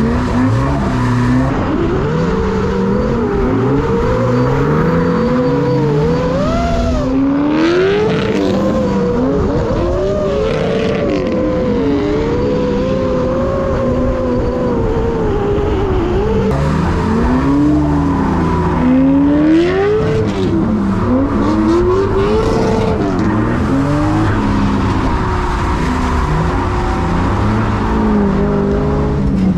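Drift car engines revving up and down again and again as the cars slide on and off the throttle, with some tyre noise from the wet track.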